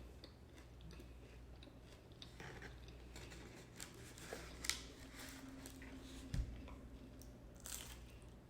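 Biting into and chewing a Jollibee peach mango pie: its fried crust gives faint, scattered crisp crunches and clicks over a low steady hum.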